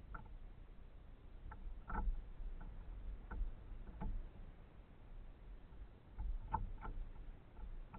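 Irregular light knocks and taps of kayak gear being handled, likely a paddle bumping the kayak's hull, over a low rumble. The loudest knocks come about two seconds in and again near the end.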